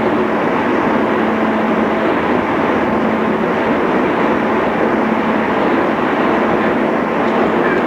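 Interior running noise of a JR East 211 series electric multiple unit under way: a steady rumble of wheels and running gear with a constant low hum.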